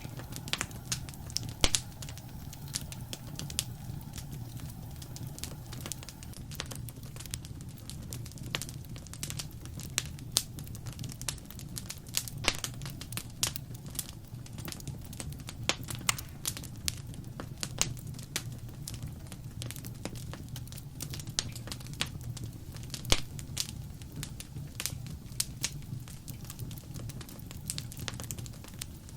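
Wood fire in a fireplace crackling: irregular sharp pops and snaps over a steady low rumble of flames.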